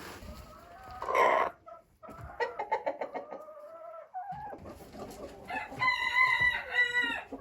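Chickens clucking and calling: a loud squawk about a second in, a run of short clucks, then one long drawn-out call near the end.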